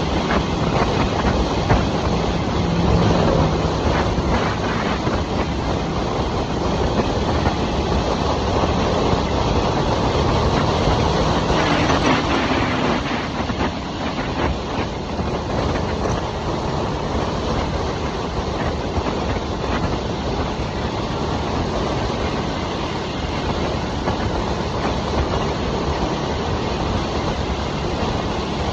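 2023 Harley-Davidson Nightster's liquid-cooled Revolution Max 975T V-twin running at cruising speed, its exhaust and engine note mixed with steady wind and road rush, with a brief drop in pitch about twelve seconds in.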